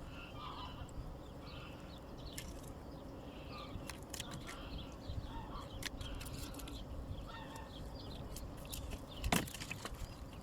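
Birds calling, many short chirping calls, over steady low background noise, with scattered clicks and one sharp knock about nine seconds in.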